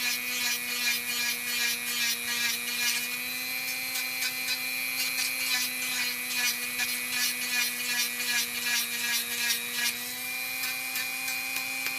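Dremel rotary tool running steadily at high speed with a constant whine, its sanding drum grinding a dog's toenail in repeated short high-pitched rasps as it is worked around the nail.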